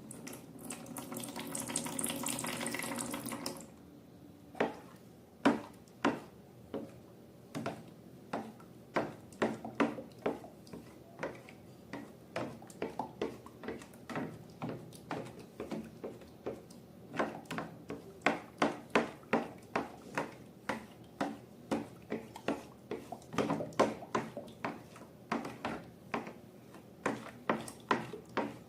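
Slime being worked by hand: a run of sharp, wet, sticky clicks and pops, sparse at first and coming faster after about halfway. It opens with about three seconds of a steady hiss like liquid being poured.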